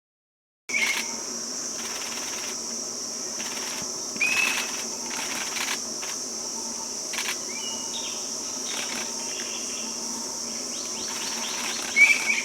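A steady, high-pitched drone of insects, crickets or cicadas, starting after a brief moment of silence. Over it, short whistled bird calls come about four times, the loudest near the end.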